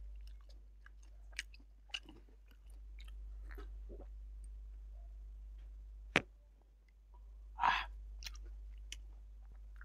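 Close-miked chewing and lip smacking of a man eating fish curry and rice by hand, a series of small wet clicks, with a sharp snap about six seconds in and a louder burst of mouth noise just before eight seconds.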